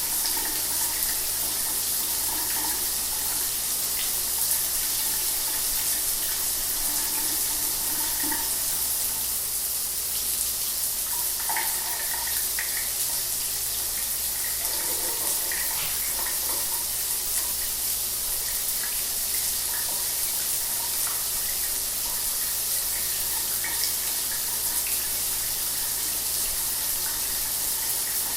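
Shower water running steadily, a constant hiss of spray with small splashes.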